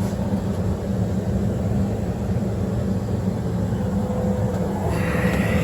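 Newly installed 90% gas furnace running under test: a steady low hum and air rush from the blower and inducer, with a steady tone joining about four seconds in.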